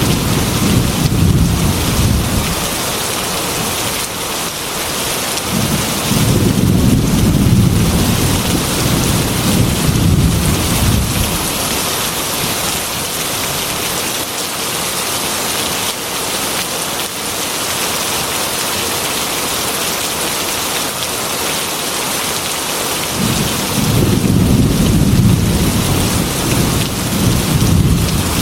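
Heavy rain beating steadily on a glass window, with low thunder rumbling three times: at the start, again from about five to eleven seconds in, and near the end.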